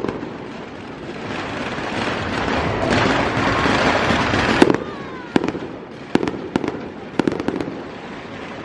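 Fireworks going off: a dense hissing crackle swells for a few seconds, then breaks into a string of sharp bangs and pops.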